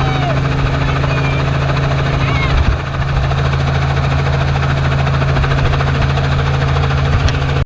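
Helicopter running, a steady low drone of engine and rotor.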